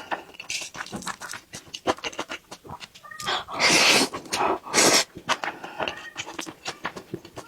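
Close-up eating sounds from a mouthful of braised beef tendon and octopus rice: wet chewing with many small clicks, and two long slurps, the first about three seconds in and lasting about a second, the second shortly after.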